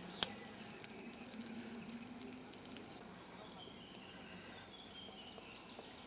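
Quiet outdoor evening ambience: one sharp click just after the start, a few faint scattered crackles over the next few seconds, and faint distant birdsong in the middle.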